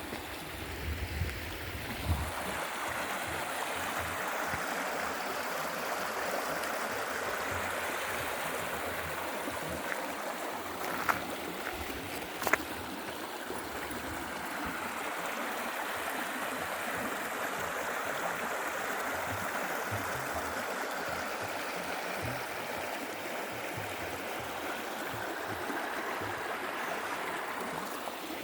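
Mountain stream water running steadily over rocks, with two sharp clicks about halfway through.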